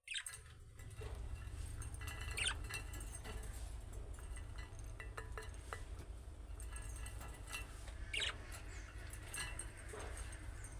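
Budgerigars chattering softly: a few short, bright chirps stand out among many small scratchy clicks, over a low steady hum.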